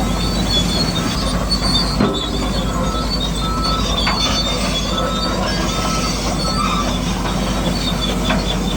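Tracked machine working, its tracks squealing and clanking over a steady running drone, with a few sharp clicks.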